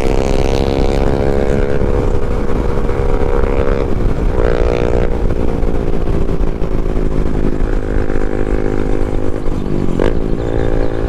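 Yamaha MT-07's parallel-twin engine running under way, with wind rush on the microphone. The engine note breaks off briefly about four and a half seconds in and again near ten seconds.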